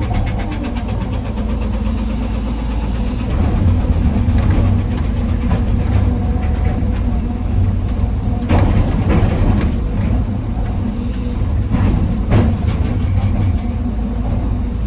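Heavy diesel engine of an excavator running steadily while loading andesite stone, with a few sharp knocks scattered through.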